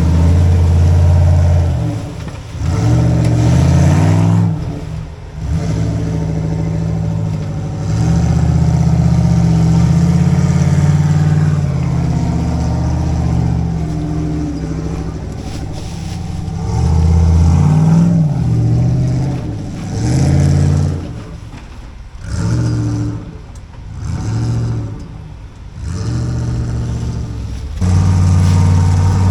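Off-road rock crawler's engine working under throttle in repeated bursts, revving up and easing off again and again as the rig crawls over rock.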